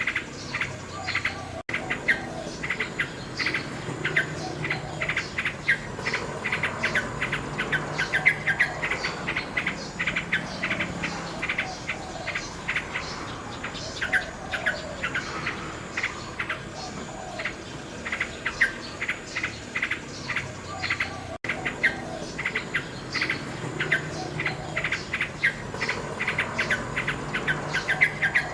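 Common nightingale singing in fast runs of rapidly repeated notes and trills, over steady chirping of crickets. The sound drops out for an instant twice.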